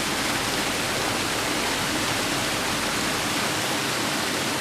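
Steady rush of water from a mountain headwater stream, an even, unchanging noise.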